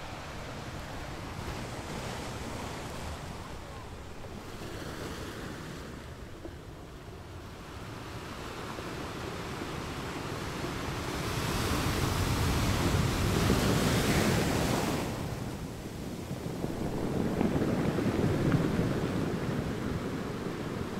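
Sea waves breaking on a shore, a steady rush of surf that swells into two louder surges, one around the middle and one near the end.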